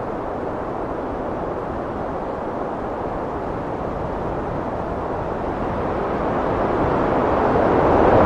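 Heavy wind blowing steadily in a low rushing noise, rising into a stronger gust near the end.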